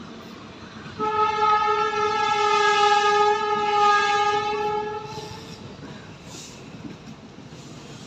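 Express train's locomotive horn sounding one long, steady blast about a second in, fading out after about four seconds, over the rumble of the running train.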